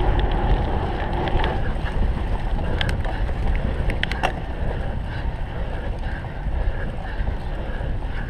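Wind rumbling on the microphone while a cyclocross bike is ridden, with a few sharp rattles or clicks about three and four seconds in.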